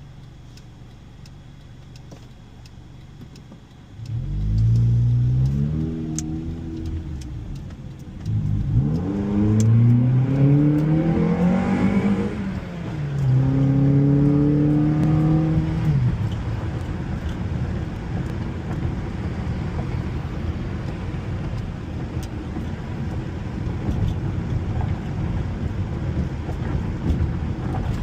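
A Honda car engine pulling away and accelerating through the gears. The revs climb about four seconds in, fall back at a shift, climb again twice, and then settle into steady cruising with road noise.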